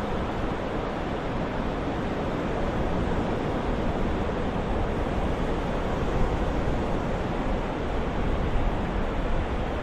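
Ocean surf: a steady, unbroken wash of waves, with no single wave standing out.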